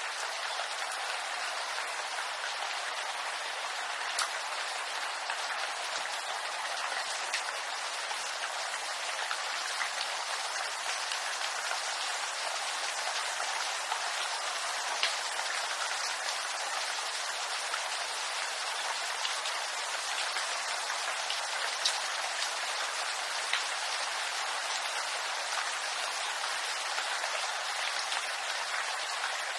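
Steady rain falling on bamboo leaves: an even hiss with scattered louder drop ticks.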